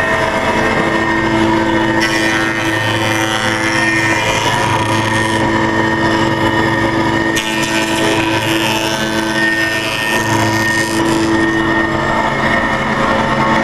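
Balestrini contour tenoner running, its motors giving a steady hum and whine under a loud rush of noise. The higher hiss brightens suddenly about two seconds in and again about halfway through, as the cutting changes.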